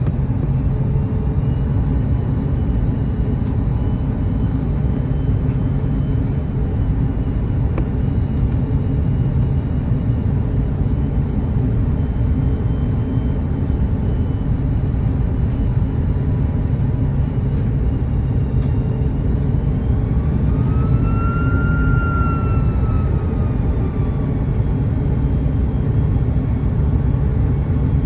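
Steady low rumble of airflow and the General Electric CF6-80E1A4 engines inside the cabin of an Airbus A330-202 airliner on approach. About twenty seconds in, a whine rises, holds for a moment and falls away again.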